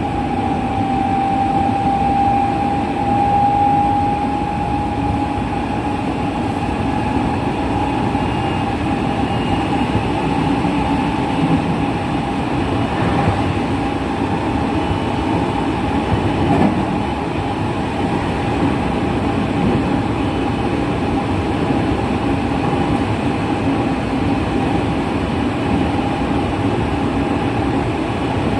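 JR West 207 series commuter train's running sound heard inside the car, with its original, unchanged traction motors. A steady motor whine, rising slightly in pitch over the first few seconds and then holding, sits over a continuous rumble of wheels on track.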